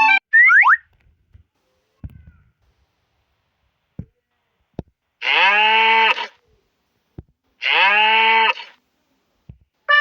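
A cow mooing twice, each moo about a second long, with a pause between them. A brief rising glide sounds just after the start, and a few faint clicks fall in the quiet gaps.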